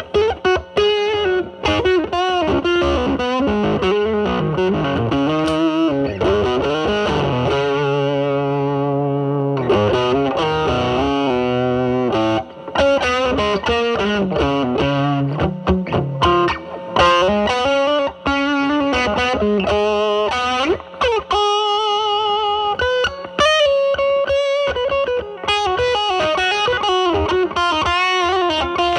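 Electric guitar (Telecaster) through a DIY Mosrite Fuzzrite clone fuzz pedal with a 2N2369 silicon transistor, into a Marshall Valvestate drive channel. It plays improvised blues lead lines with string bends and vibrato, with a held chord about a third of the way in.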